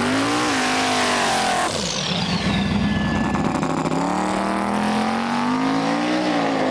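Drag race car engines running and revving, the pitch rising and falling. The sound changes abruptly a couple of seconds in, followed by a high falling whine.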